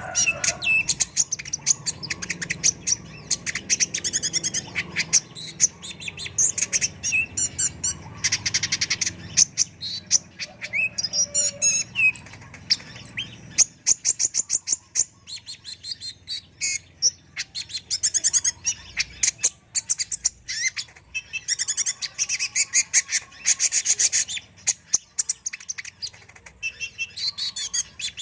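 Kolibri ninja (Van Hasselt's sunbird) singing nonstop: fast high chirps, twittering trills and sharp ticking notes in quick succession.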